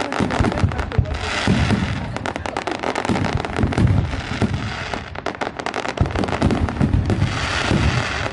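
Fireworks going off in quick succession: dense pops and crackles over repeated low booms, with crackling swells about a second in and again near the end.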